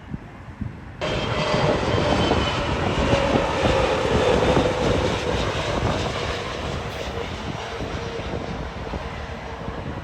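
Jet airliner's engines passing close by: a loud rush that starts suddenly about a second in, with a whine that slowly falls in pitch as the aircraft goes past, then eases off.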